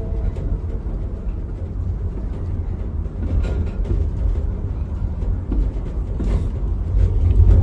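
Miniature train running: a steady low rumble with light clicks and rattles.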